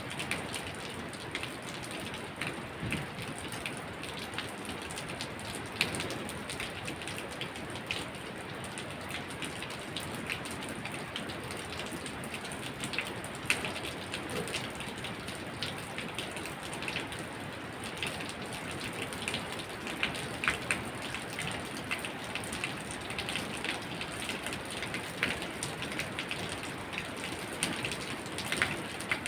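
Steady rain falling, with many distinct drops ticking sharply on a hard surface close by.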